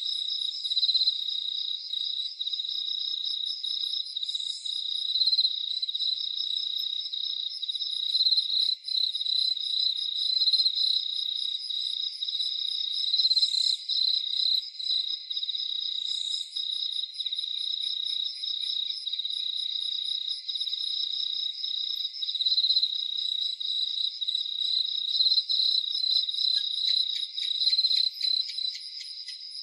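A chorus of crickets chirring steadily and high, with a fainter, faster pulsed insect call above it. A quick run of rapid clicks comes near the end.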